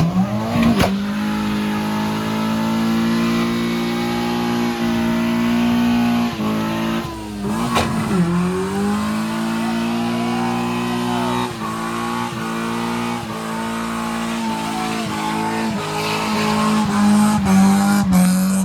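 Car engine held at high revs during a burnout, with tyre squeal over it. The revs dip briefly twice and climb back each time.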